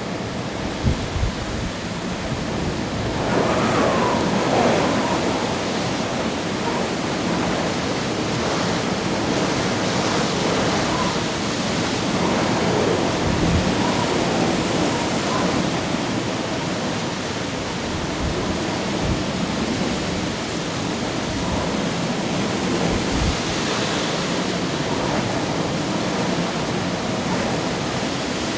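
Typhoon storm: a steady rush of wind and driving rain, swelling in a gust a few seconds in, with occasional low thumps of wind buffeting the microphone.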